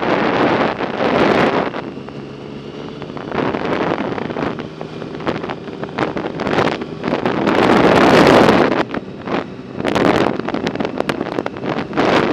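Wind buffeting the microphone of a camera riding on a moving bicycle, coming in uneven gusts that peak around eight seconds in, with scattered sharp clicks and knocks.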